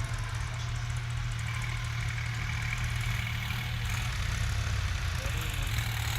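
New Holland 3600-2 tractor's three-cylinder diesel engine idling steadily.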